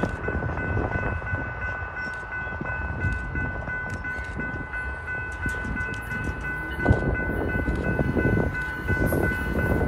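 CSX crude oil freight train approaching from the distance, its rumble growing louder from about seven seconds in, with a steady high ringing tone throughout.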